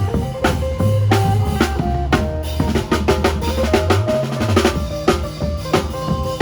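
Live Isan lam phloen band music: a drum kit keeps a fast, steady beat under a heavy bass line and a melody of short notes played on the phin lute.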